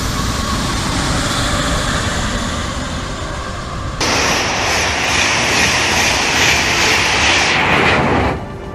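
High-speed train running past, a steady rush of air and wheel noise. About four seconds in it jumps abruptly to a louder, hissier rush, which cuts off suddenly just before the end.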